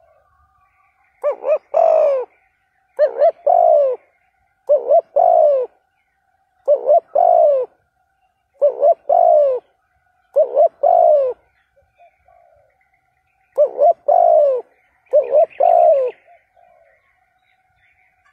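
Spotted dove cooing: eight repeated phrases, each a couple of short notes followed by a longer falling coo, about one phrase every two seconds.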